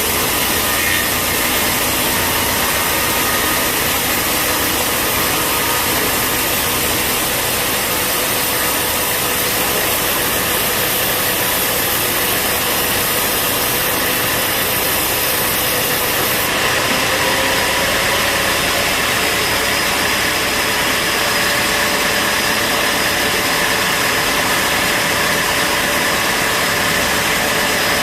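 Band sawmill running, a loud steady machine noise with faint whining tones, one of which climbs slightly in pitch over the second half.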